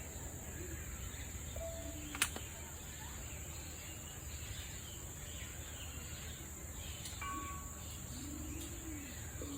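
Faint outdoor ambience: a steady high insect drone and a low rumble, with a few short, scattered bird calls. A single sharp click comes about two seconds in.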